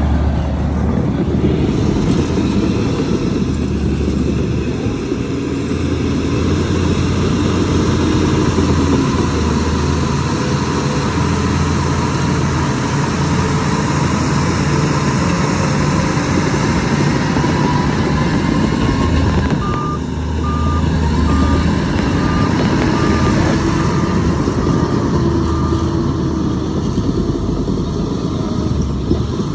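Heavy diesel earthmoving machinery running steadily under load. About two-thirds of the way in, a reversing alarm beeps at an even pace for several seconds.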